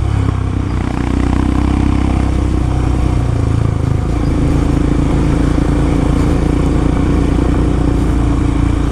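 Royal Enfield Himalayan's single-cylinder engine running steadily under way, heard from the bike itself, with wind and road noise. The engine note shifts about three to four seconds in.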